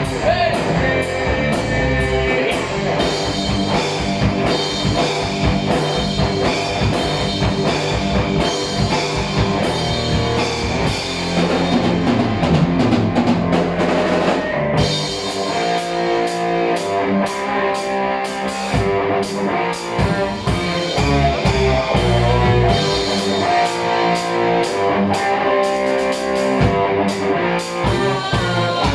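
Heavy metal band playing live: electric guitars and a drum kit in an instrumental passage.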